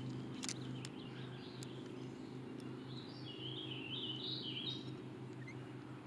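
A songbird singing a short, stepped warbling phrase about halfway through, over a steady low hum, with a few sharp clicks near the start.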